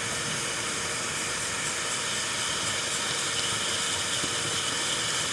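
Shop vac running as a blower, a steady hiss of rushing air with a constant motor whine, pushing air into a car's exhaust to find an exhaust manifold leak.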